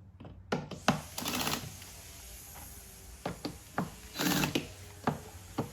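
Fasteners on the air filter housing being tightened at very low torque: a string of short clicks with two brief buzzy bursts of the driving tool, about a second in and again near the end.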